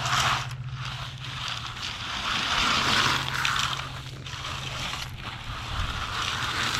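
Crushed limestone ballast crunching and scraping in about four separate swells, each lasting roughly a second, as the gravel is moved around the ties. A steady low hum runs underneath.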